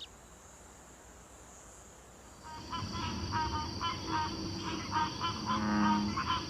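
Swamp ambience that starts about two and a half seconds in: a steady high insect drone and repeated short honking calls, about two a second.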